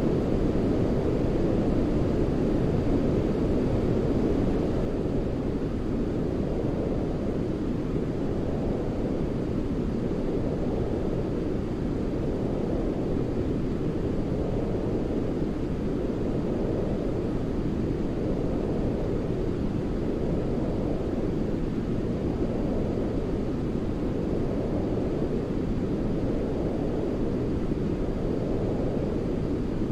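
Steady sleep-aid noise track weighted toward low pitches, a deep even rush with slow, gentle swells every couple of seconds. It drops slightly in level and brightness about five seconds in.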